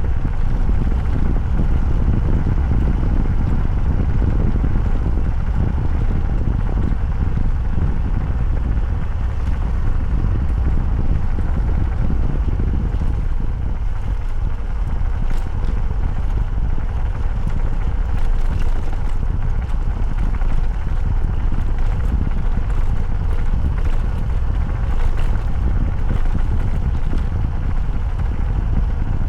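Motorcycle running at a steady speed on the road, its engine mixed with a steady low rumble of wind buffeting the microphone.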